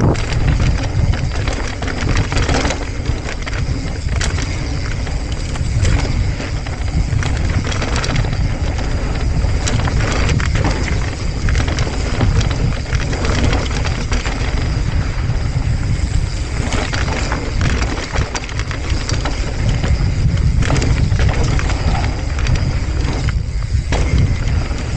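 Mountain bike descending a dirt fire road at speed: heavy wind buffeting on the microphone, with tyres rumbling over the dirt and the bike rattling and knocking over bumps.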